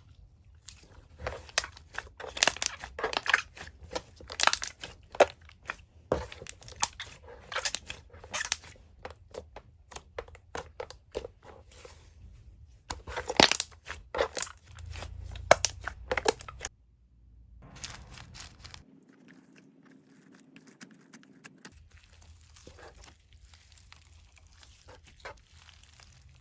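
Slime being squished and pressed by hand, giving off dense crackling and clicking in bursts, quieter and sparser after about 17 seconds.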